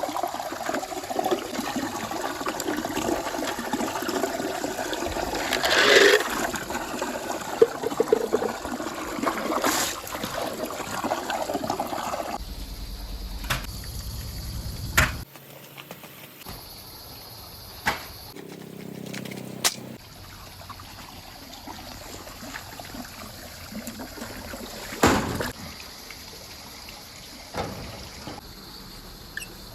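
Balls rolling along a marble-run track: a dense, continuous rolling rattle for the first twelve seconds or so, then quieter with a few scattered sharp clicks as marbles knock against the track.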